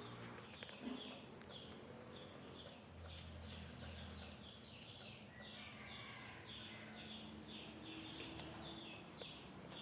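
Faint bird chirping, short high calls repeated two or three times a second, over a low steady hum.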